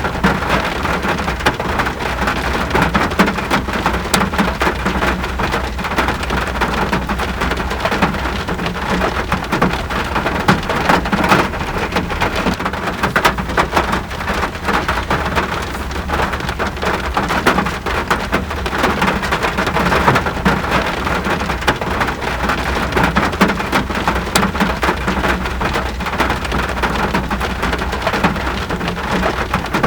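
Steady heavy rain, a dense even patter of drops striking surfaces, with a constant low rumble underneath.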